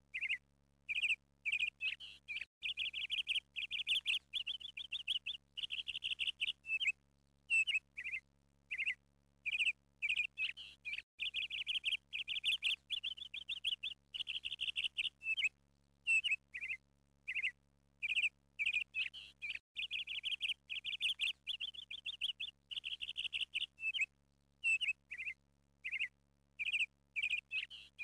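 Bird chirping and twittering. Short separate chirps alternate with runs of a few seconds of rapid, continuous twittering, in a pattern that recurs about every nine seconds.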